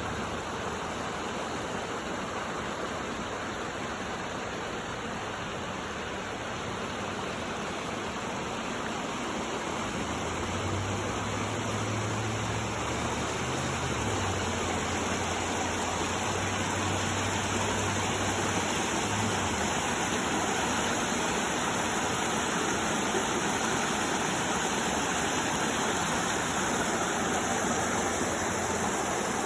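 Steady rush of flowing spring water from a creek or small falls. A low hum joins it for several seconds near the middle.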